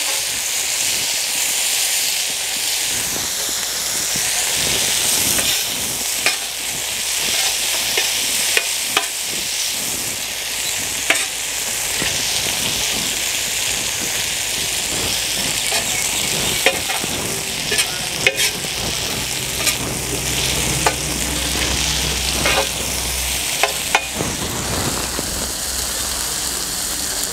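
Sliced tomatoes and softened onions sizzling in hot groundnut oil in a large wok, with a spatula scraping and knocking against the pan now and then as they are stirred.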